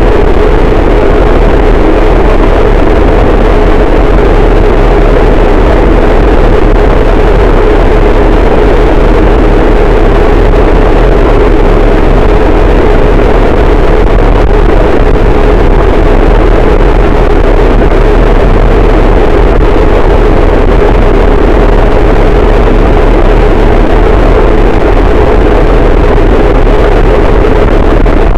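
Harsh noise wall: a dense, unchanging wall of heavily distorted static at full volume, thickest in the low midrange with a deep rumble underneath.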